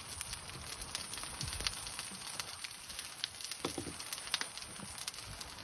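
Food frying in olive oil in a pan over a wood fire: a steady sizzle with many small crackles and pops.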